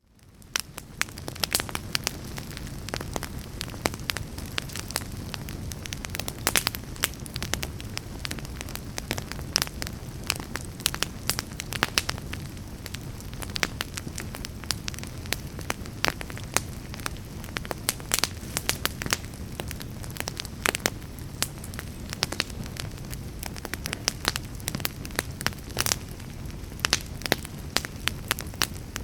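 Fire burning in a fireplace, crackling with frequent sharp pops over a steady low rumble, fading in at the start.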